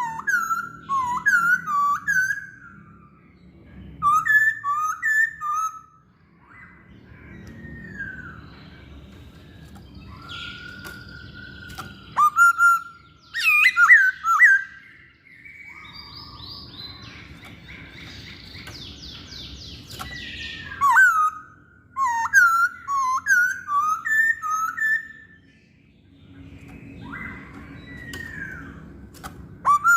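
Masked laughingthrush singing: several phrases of loud, quick, slurred whistled notes that swoop up and down, separated by pauses of a few seconds, with a low background rumble between phrases.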